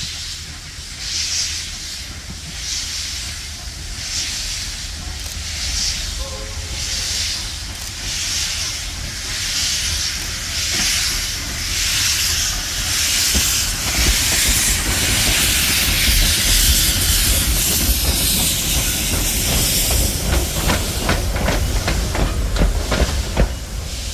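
Steam locomotive under way with evenly spaced exhaust chuffs that quicken and blend into a steady hiss of steam. Near the end come quick clicks of wheels over rail joints.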